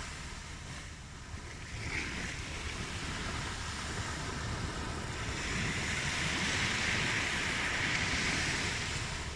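Ocean waves washing onto a shore: a steady surf that swells slowly to a peak a few seconds in, then eases back.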